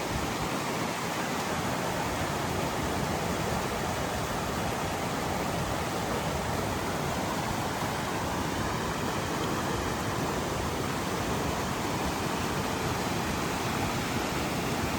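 Mountain stream rushing steadily, an even unbroken water noise.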